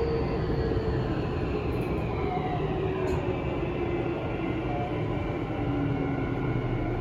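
Tokyu 5000 series electric train heard from inside the car: steady wheel and track rumble with the traction motors' whine, several tones slowly falling in pitch as the train slows for the next station.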